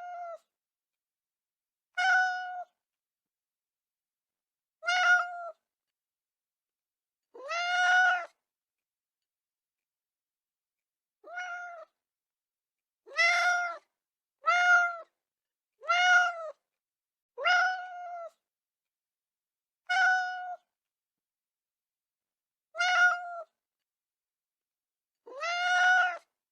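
A cat meowing: about eleven separate meows, each under a second long, with silence between them.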